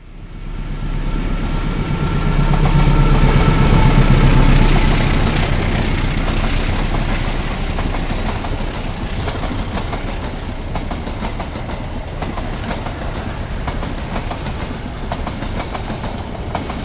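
Diesel-hauled long-distance passenger train passing on a nearby track. There is a heavy rumble and wheels clattering over the rails, loudest a few seconds in, then a steady rattle as the coaches go by.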